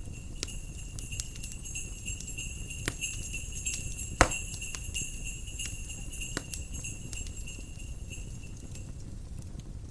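Small jingle bells ringing steadily and high, fading out near the end, over a fireplace crackling with scattered pops. One sharp, loud pop comes about four seconds in. A low steady rumble of fire and wind lies underneath.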